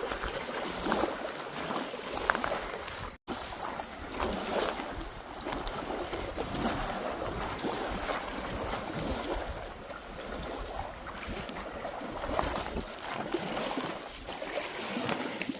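Small waves lapping on a rocky lake shore, with wind on the microphone. The sound drops out completely for a moment about three seconds in.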